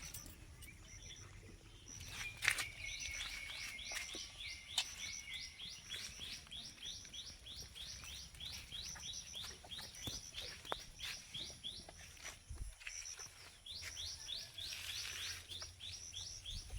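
A bird calling a long series of short, high, rising chirps, about two or three a second, pausing near the middle and starting again, over faint background rumble with a few clicks.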